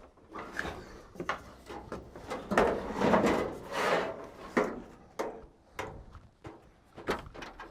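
Stored aircraft parts being handled and pulled out: a string of knocks and clunks, with a longer scraping rustle between about two and a half and four seconds in.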